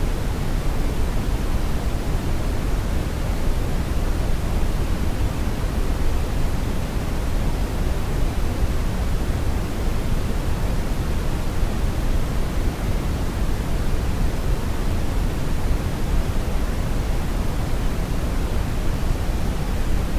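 Brown noise: a steady, unchanging rumbling hiss, heaviest in the deep bass and thinning toward the treble.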